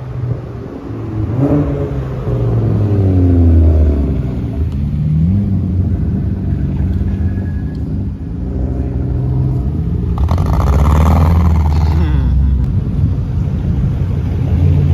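Car engines revving repeatedly, pitch climbing and falling, with a loud rush of noise for about two seconds about ten seconds in.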